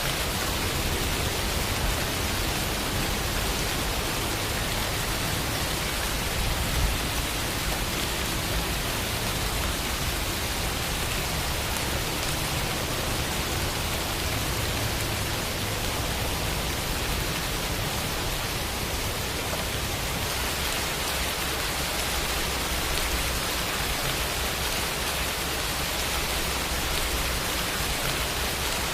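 Steady, heavy rain falling, a dense even hiss of drops with no pauses.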